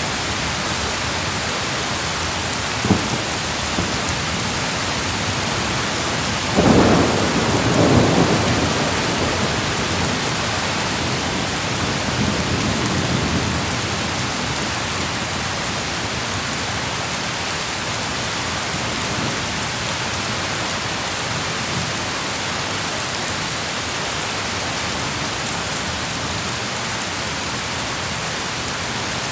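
Steady rain falling through a thunderstorm. A short crack comes about three seconds in, then a loud thunderclap about seven seconds in that rumbles away over the next several seconds.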